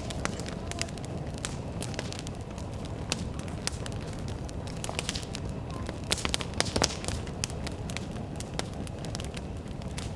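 Wood bonfire crackling and popping irregularly over a low steady rumble, with a cluster of louder pops about six seconds in.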